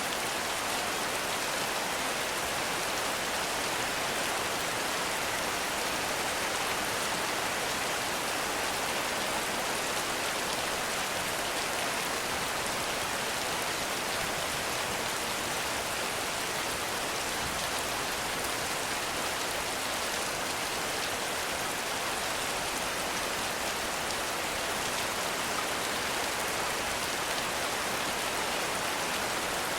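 Heavy rain falling steadily, a dense even hiss of drops with no letup or change.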